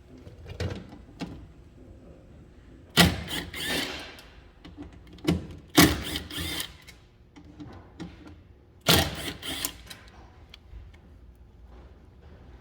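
A power driver with a T30 Torx bit running in three bursts of about a second each, with a few lighter knocks before the first.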